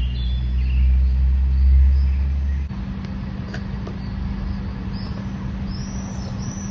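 Deep rumble of a moving vehicle that cuts off abruptly after a couple of seconds. It is followed by a steady hum and traffic noise, with short high bird chirps coming more often near the end.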